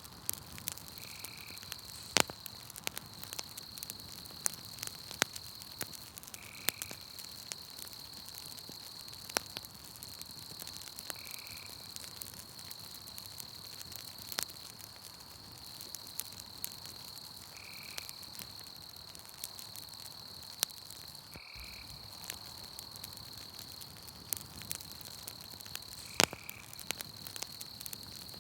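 Campfire crackling, with sharp pops scattered irregularly, over a steady high insect trill. A short high call from the night forest repeats about every five seconds, six times.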